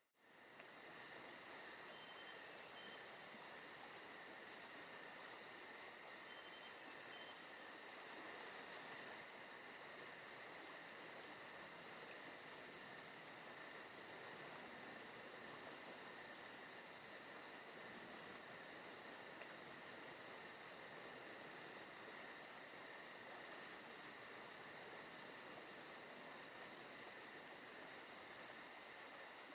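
Forest night ambience of crickets chirping in a steady, continuous high-pitched chorus with a fast even pulse. The sound cuts out for a moment right at the start, then carries on unchanged.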